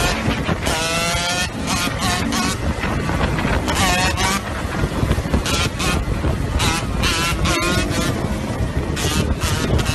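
Dirt bike engine revving up and down several times while riding, with heavy wind rush on the microphone.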